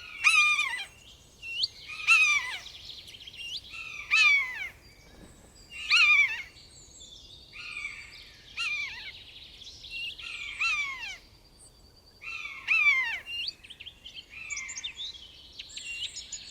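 A bird of prey calling: a series of loud, short, downward-sliding whistled cries repeated about every two seconds, with fainter twittering of other birds between them.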